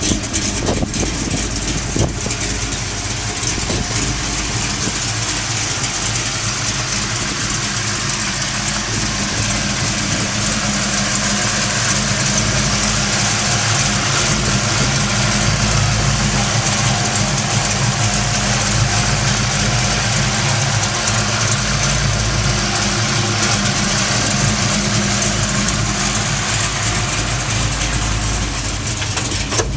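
1969 Chevrolet Chevelle SS's V8 engine idling steadily.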